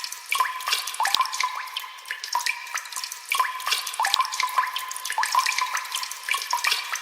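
Water drops falling into water, irregular plinks, a couple each second, some with a short rising pitch.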